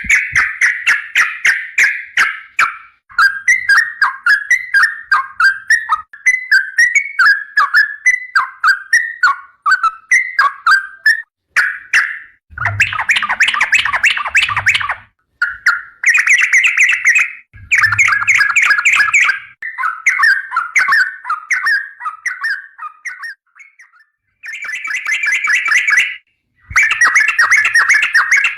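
Yellow-vented bulbul (trucukan) singing long, rapid runs of short bubbly notes, phrase after phrase with brief breaks between them.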